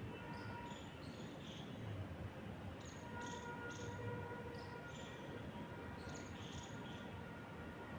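Small birds chirping, with short high chirps scattered irregularly, over a steady soft wind through trees.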